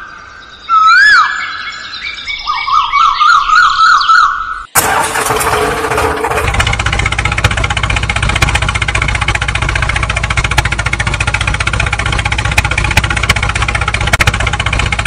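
Bird calls: two loud whistles that swoop up and down, then a quick warbling trill. About five seconds in these cut off and a steady engine sound with a constant low drone takes over and runs on evenly.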